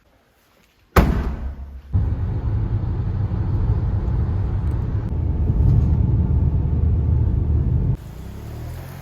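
A car: a sharp thud about a second in, then a loud, steady low rumble that cuts off suddenly near the end.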